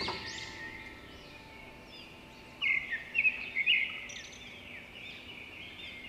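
Birds chirping and calling, a mix of short high whistles, with a run of loud sharp chirps from about two and a half to four seconds in.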